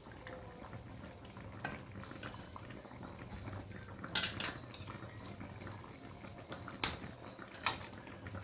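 A metal utensil clinking against a cooking pot a few times, the loudest strike about four seconds in, over the low, steady bubbling and sizzling of food cooking on the stove.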